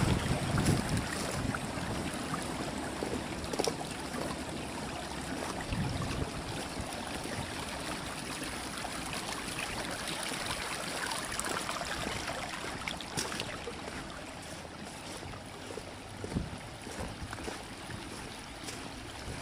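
Steady rush of running water from rain runoff, with a few gusts of wind on the microphone in the first second.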